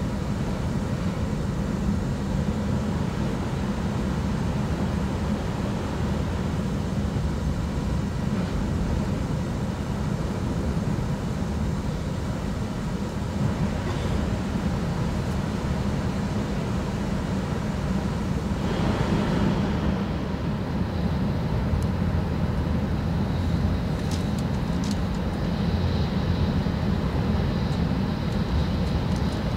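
Cabin noise of an E6 series Shinkansen running at high speed: a steady, deep rumble of wheels and air. About two-thirds of the way in, a brief swell of rushing noise marks the train passing through a station without stopping, and the hiss changes after it.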